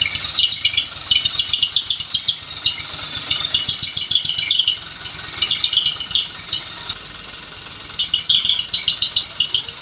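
A truck engine running low and steady, under repeated short bursts of quick, high-pitched chirps.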